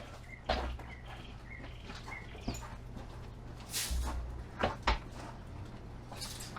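Several short knocks and rustles of cut tree and bush trimmings being handled and piled, with a few small bird chirps in the first two seconds.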